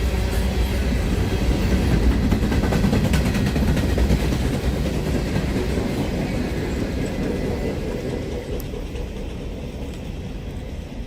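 Freight train cars rolling past, with the wheels clacking over rail joints. The rumble grows fainter over the last few seconds.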